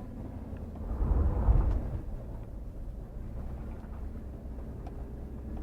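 A 4x4 truck's engine running with a steady low rumble, swelling louder for about a second shortly after the start, as the truck sets off on the dirt trail.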